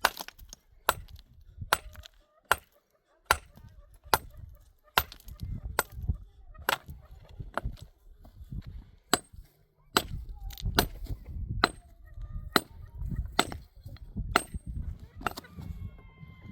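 A steady series of sharp strikes, a little more than one a second, like blows of a chopping or striking tool, over a low rumble.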